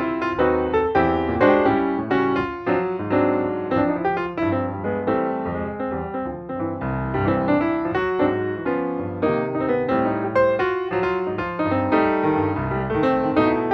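Background piano music: a steady flow of quickly played notes.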